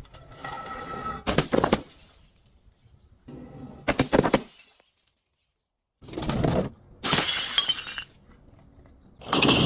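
Glass bottles shattering in a run of about five separate crashes, the first carrying a short ringing clink. About five seconds in there is a second of dead silence.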